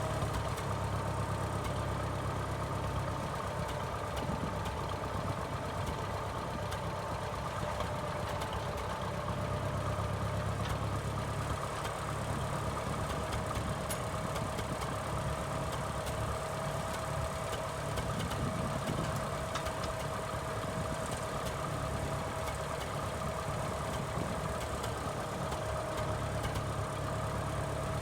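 Minneapolis Moline tractor's 403 cubic-inch LP-gas engine running steadily at idle, with a constant high whine over the engine note.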